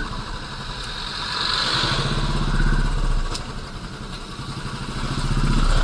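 Royal Enfield Classic 350's single-cylinder engine running at low speed with its steady low thump. It swells with the throttle around the middle and again near the end.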